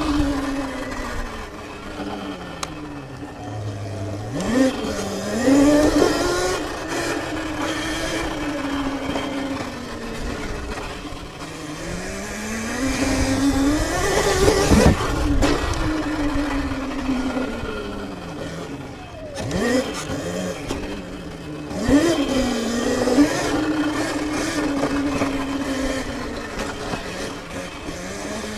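Sur-Ron electric dirt bike's motor whining, its pitch rising and falling as the rider speeds up and slows down several times.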